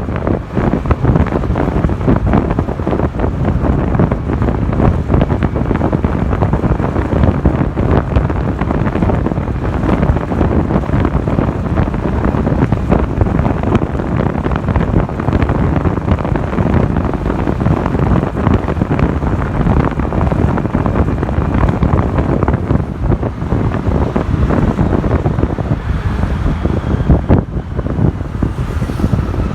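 Wind buffeting the microphone of a motorcycle-mounted camera while riding, over the rush of road and engine noise. The buffeting eases near the end, and faint whining tones come through.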